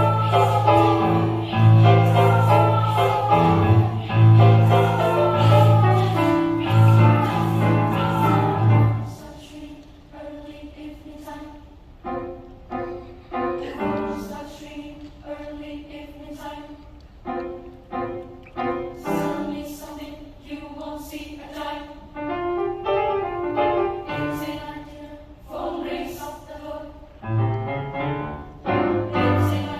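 Children's choir singing. For the first nine seconds it is loud, with held low notes under repeated falling slides, then it drops to a quieter passage of short, detached notes.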